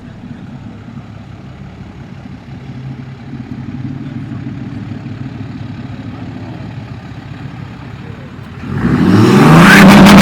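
Vehicle engines running steadily. Near the end a much louder vehicle accelerates past, its engine pitch rising and then falling.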